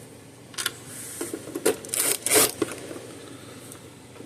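Plastic fence-charger housing being handled and fitted back together: a few short clicks and rattles, bunched in the first half.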